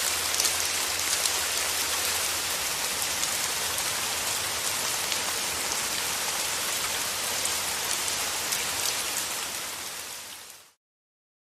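Steady rain falling, an even hiss with fine individual drop ticks. It fades out about ten seconds in to a moment of complete silence near the end.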